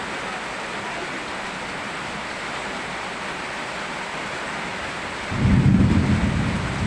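Steady rain. About five seconds in, a sudden loud, low rumble sets in and keeps going.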